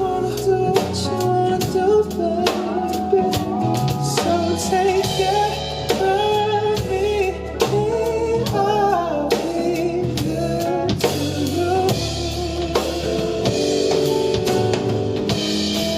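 Live band music with a drum kit keeping a steady beat under bass and guitar, and a wavering sung melody over it.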